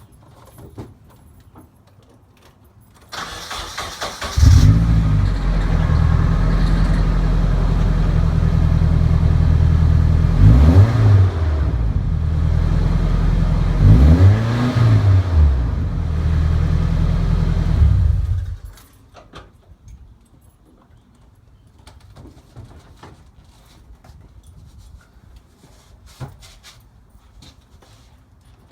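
Nissan 240SX's KA24DE 2.4-litre inline-four through a Magnaflow cat-back exhaust on a cold start: the starter cranks for about a second, the engine catches and idles, is blipped to about 2,000 rpm in a few short revs midway, then is switched off and cuts out.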